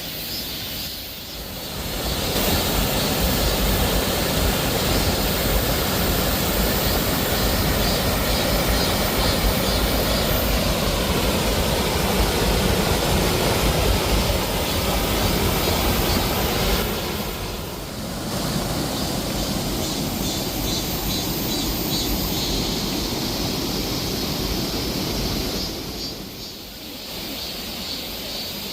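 Waterfall pouring: a steady rush of falling water with a deep rumble. It gets louder about two seconds in, dips briefly near eighteen seconds, and drops back near the end.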